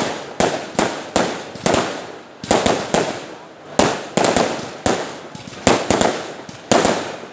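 Fireworks going off in a rapid, uneven series of sharp bangs, about twenty in all, each trailing off before the next.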